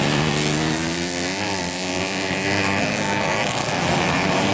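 Motocross bike engine running hard, its pitch wavering briefly up and down about a second and a half in.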